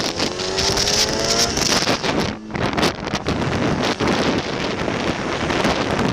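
Motorcycle engine accelerating, its pitch rising through the first second and a half, then a steady rush of wind and road noise.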